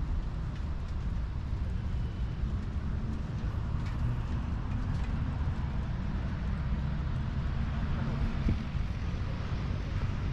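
Steady rain falling on wet paving, an even hiss under a continuous low rumble.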